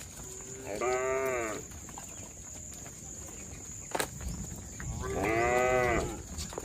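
Cattle mooing twice, each moo a short call that rises and falls, about four seconds apart. A single sharp click comes shortly before the second moo.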